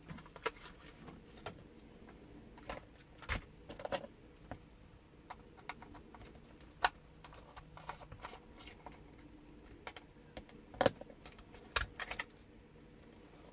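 Small plastic toy radio-control tank being handled: scattered light clicks, taps and rattles of plastic parts, with a couple of sharper clicks in the middle and again near the end.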